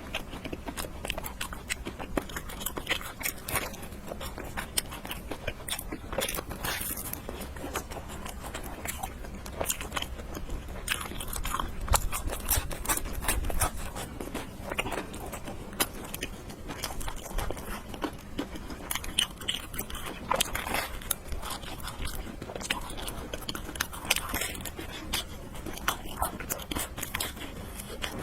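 Close-miked eating sounds: noodles slurped and chewed with wet smacks and irregular clicks, the clink of a spoon or chopsticks now and then.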